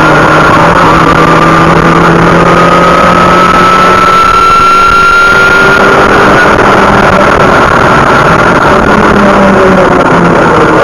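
A BMW's engine heard from inside the cabin under hard track driving, loud and steady over tyre and wind noise. Its note rises slowly for about the first six seconds as the car accelerates, then eases off near the end.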